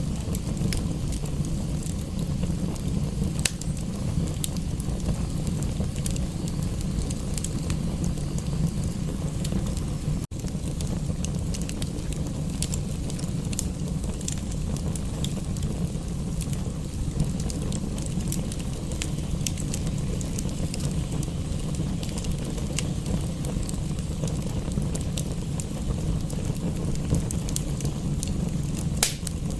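Fireplace crackling: scattered sharp pops and snaps over a steady low rumble, blended with a steady rain hiss. The sound drops out for an instant about ten seconds in.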